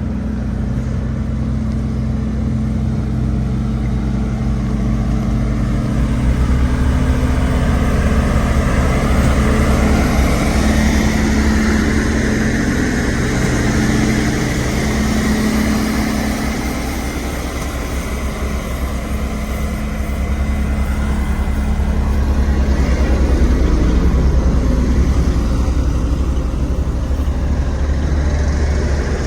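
Diesel engine of a Sakai SV5200HD road roller running steadily under load, with a deep low hum that grows stronger about six seconds in.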